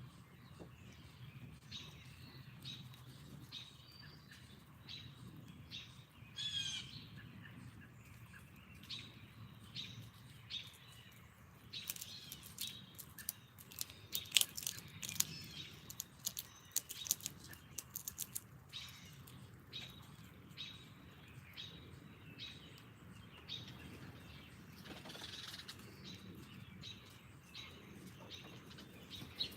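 Wild songbirds chirping and calling in short scattered notes, with one quick trilled phrase about six seconds in. Midway comes a run of sharp clicks and taps lasting several seconds, over a low steady outdoor rumble.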